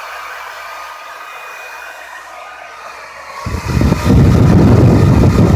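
Handheld Revlon hair dryer running on its high setting: a steady airy hiss with a faint motor whine. About three and a half seconds in, a much louder low rumble sets in as the blast of air hits the microphone.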